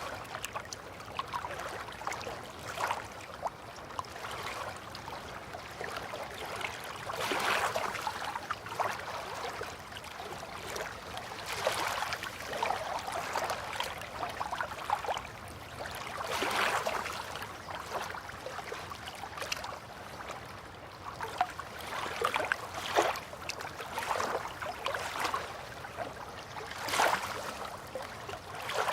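River water lapping and gurgling gently at the edge, with small irregular splashes and swells every second or so; a few are louder, about a quarter, halfway and near the end.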